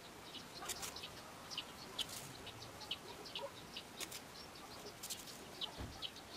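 Faint chirping of small birds: many short, high chirps scattered irregularly, with a few brief rustles of paper yarn being pulled through crochet stitches.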